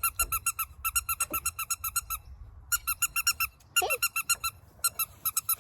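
A squeaker toy is squeezed rapidly, several high squeaks a second, in four quick runs with short pauses between them. The squeaking is used to get the puppy's attention.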